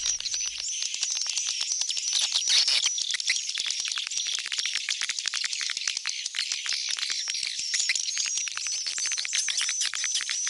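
Swiftlets twittering: a dense, unbroken chatter of high chirps and rapid clicking ticks, with a thin, repeating whistled note over it. This is a swiftlet lure call, the sound played to draw swiftlets back into a swiftlet house.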